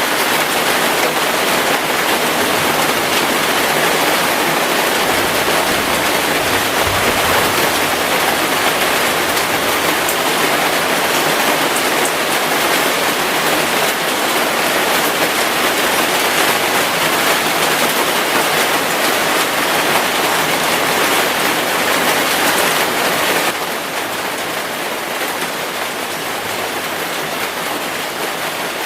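Heavy rain falling steadily, a dense even hiss. About 23 seconds in it abruptly turns a little quieter and then carries on.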